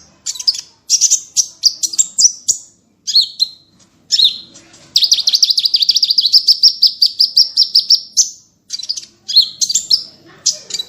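Small songbird singing loud, rapid high chirps and whistled notes in short phrases, with an unbroken fast trill of about three seconds in the middle.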